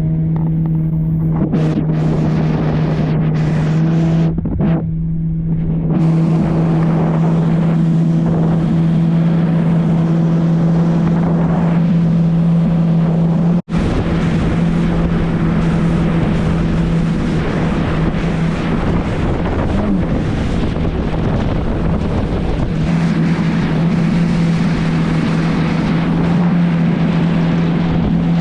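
2018 Yamaha FX HO jet ski engine running at a steady cruising pitch under a constant rushing hiss, cutting out for an instant about halfway.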